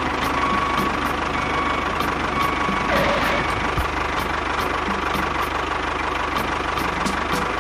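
Tractor engine idling steadily with an even, rapid knock.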